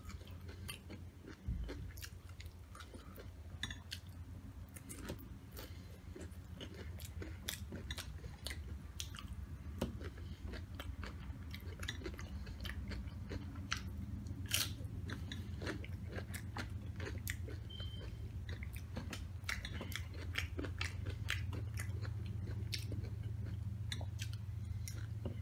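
Close-miked chewing and crunching of Doritos nachos, with many short crackles as the loaded chips are bitten and chewed. A steady low hum runs underneath.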